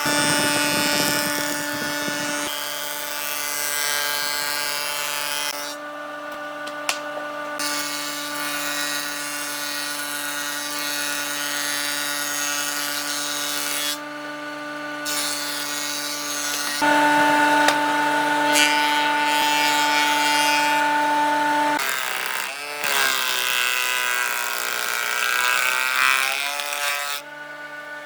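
Electric woodworking power tool running with a steady motor whine while cutting wood. The cutting noise drops out briefly twice, and about 22 seconds in the pitch wavers and dips for several seconds.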